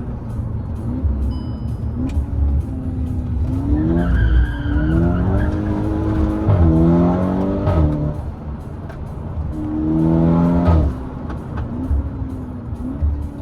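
Turbocharged 2.0-litre four-cylinder engine of a Golf GTI Edition 35 with a decat downpipe, pulling hard twice with revs climbing and stepping down at DSG gear changes. Each pull ends in a sharp crack at the upshift, the DSG 'fart'. Between pulls it cruises at lower revs.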